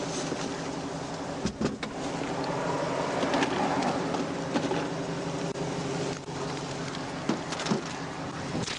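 A motor vehicle's engine running at a steady idle, with a few scattered clicks and knocks over it.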